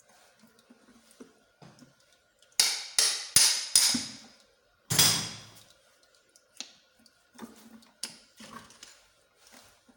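Sharp metal-on-metal strikes during engine disassembly: four quick ringing blows about 0.4 s apart, then a heavier blow a second later, followed by lighter clinks and taps of metal parts and tools.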